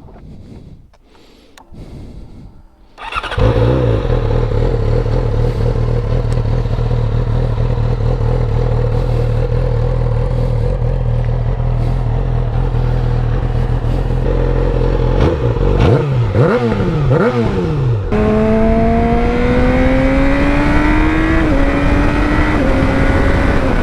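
Yamaha R6 sportbike's inline-four engine starting about three seconds in and idling steadily, then revved in a few quick blips. Near the end it pulls away and accelerates, its pitch rising and dropping back twice at upshifts.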